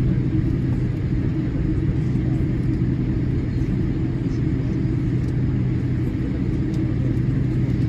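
Steady cabin noise of a Boeing 787-8 Dreamliner taxiing: a constant low rumble with a steady hum from the idling engines and cabin air.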